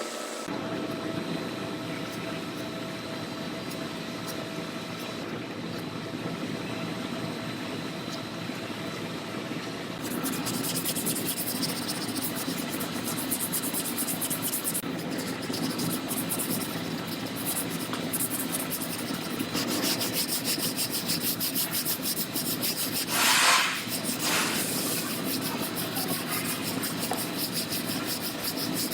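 Rubbing and scraping against the sheet-metal bedside of a Chevy Silverado as glaze filler is worked over old bodywork. It becomes a louder, faster rasping about a third of the way in, with one brief louder swish near the end.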